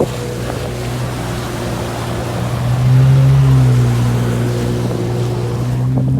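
Jet ski engine running steadily over wind and water noise, growing louder about three seconds in and then easing slightly.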